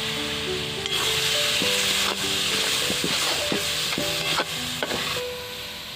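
Spiced onion-tomato masala sizzling in oil in a metal kadai while a perforated slotted spoon stirs it, with several sharp scrapes of the spoon against the pan. The sizzle drops away about five seconds in; background music plays underneath.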